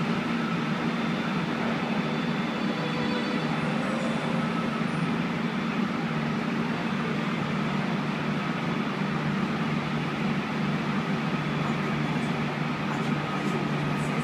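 Steady running noise heard inside a passenger train car: an even low hum with faint steady high tones, unchanging throughout.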